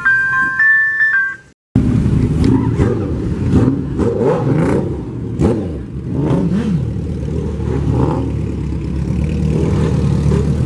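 A few notes of a bell-like mallet melody cut off abruptly, then a car engine running and revving, its pitch rising and falling several times, with a handful of sharp clicks.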